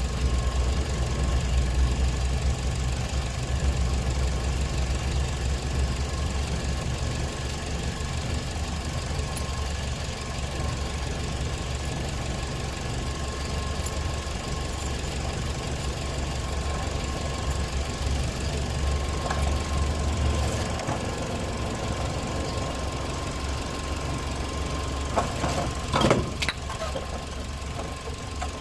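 Toyota four-cylinder petrol engine idling during a one-by-one check of its newly fitted ignition coils for rough running. The low rumble weakens about two-thirds of the way through, and a few sharp clicks come near the end.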